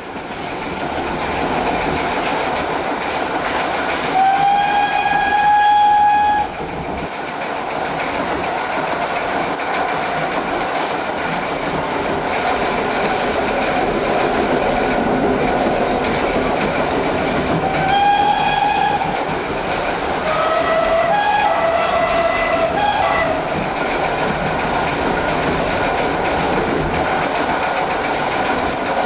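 Steam locomotive GWR 5521 running with its train, the steady rumble and rattle of the wheels going on throughout. Its whistle sounds three times: a steady blast of about two seconds near the start, a shorter one about two-thirds through, and a wavering one soon after.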